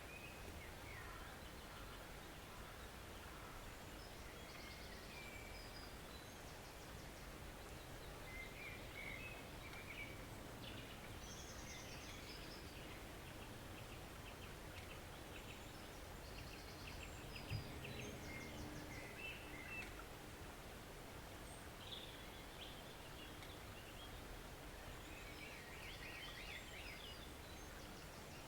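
Small forest stream running with a steady, faint rush, while songbirds call intermittently with short chirps and trills. A single soft thump about two-thirds of the way through.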